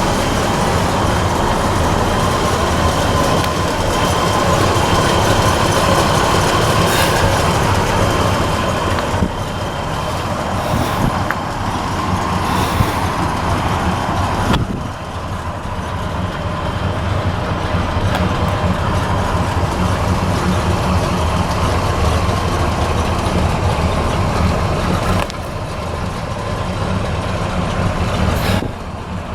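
1966 Chevrolet C-10 pickup's 350 V8 running with a steady rumble mixed with road and rolling noise, as from a truck under way. The loudness dips briefly a few times.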